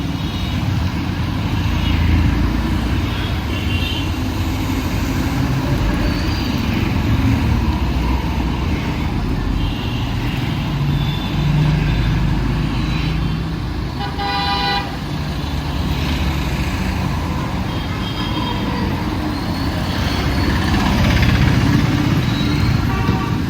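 Busy city road traffic: engines running and vehicles passing in a steady rumble, with short horn toots, the clearest honk a little past halfway.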